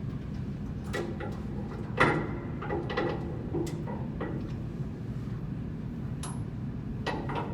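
Scattered clinks and knocks of tools and metal parts being handled during blower bearing work, a few sharp taps spread over several seconds, over a steady low hum.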